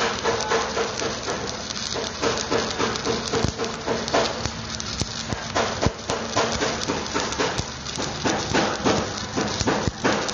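Electric stick (arc) welding on an excavator bucket adapter: the arc crackles and sputters steadily, with dense irregular clicks and a few sharper pops.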